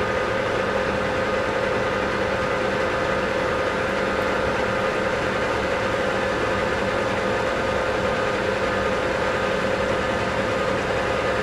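South Bend 14-1/2 engine lathe running steadily, with a constant hum of several fixed tones, while it takes a light turning cut along a long shaft.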